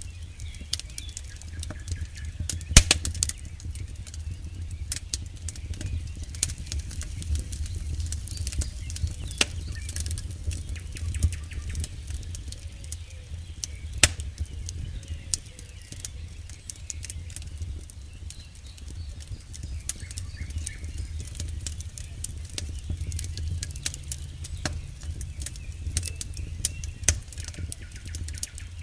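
Campfire burning, with irregular crackles and pops from the wood over a steady low rumble of flames. One sharper pop comes about three seconds in.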